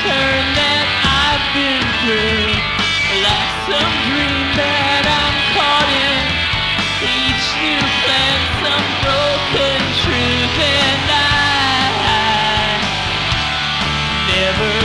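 Rock band playing live, from an old cassette tape: a lead electric guitar line with bent, wavering notes over bass and drums. The top end is dull.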